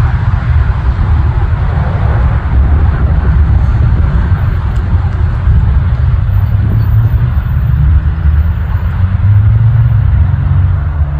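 Steady low roar of a jet aircraft's engines, with a faint changing hum rising out of it in the last few seconds.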